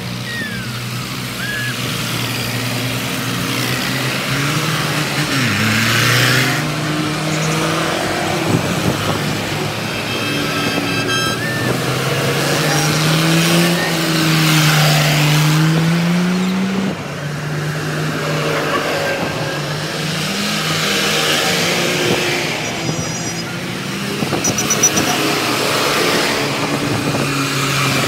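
Tractor engines running as a line of tractors drives off one after another, each engine note rising and falling as it passes.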